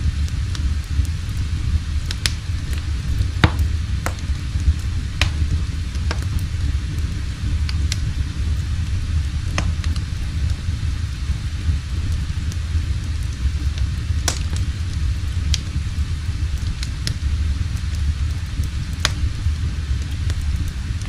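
Wood fire crackling in a fireplace: a steady low rumble with scattered sharp pops.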